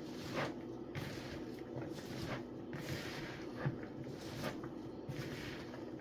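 Irregular soft squishing and rustling as seasoned, cut-up vegetables are mixed and turned by hand, with a steady low hum underneath.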